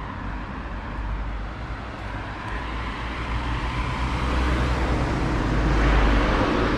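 Road traffic: a vehicle draws nearer and passes close by, loudest about six seconds in, over a steady low rumble.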